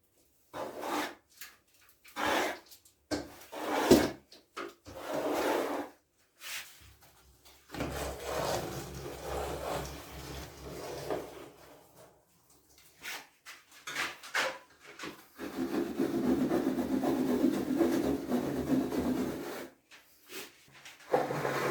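Repeated bursts of scraping and rubbing from hand work on bathroom surfaces, with a sharp knock about four seconds in and a longer, steadier stretch of scraping near the end.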